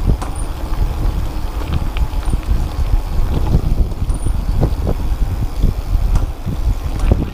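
Wind buffeting the microphone during a fast downhill bicycle ride, a steady low rumble, with frequent small knocks and rattles from the bike running over rough ground.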